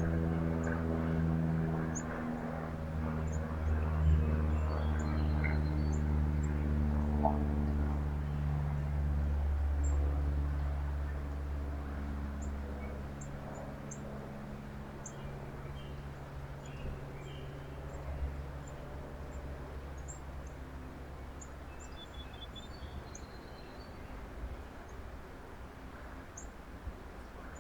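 Low engine hum, loud at first and fading away over about the first twelve seconds. Small birds chirp faintly throughout in short high notes.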